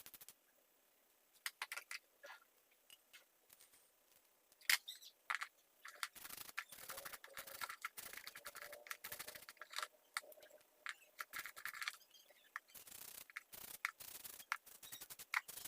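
Scattered clicks and short scraping, brushing strokes from hands working on a mini chainsaw while it is cleaned. The strokes come thicker from about six seconds in.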